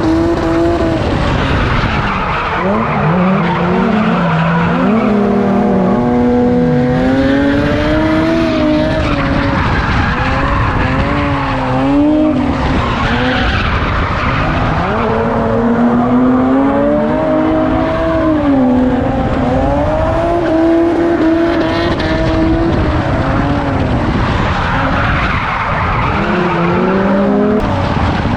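A car drifting: its engine revs rise and fall over and over as the throttle is worked, over a steady hiss of skidding tyres.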